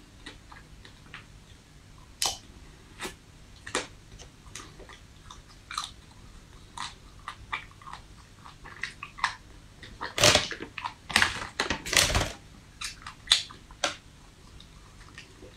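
Chewing of a hard frozen ice cream bar: scattered crisp crunches, then a loud run of crunching bites about ten to twelve seconds in.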